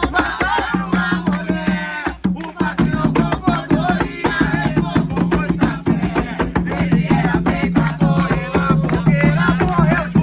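Umbanda ponto for Exu: hand drums played in a fast, dense rhythm under singing voices.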